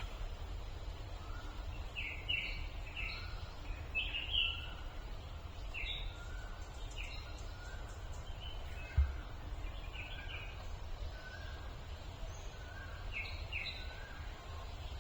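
Birds calling in short, separate chirps, some in quick pairs, over a steady low rumble, with a single low thump about nine seconds in.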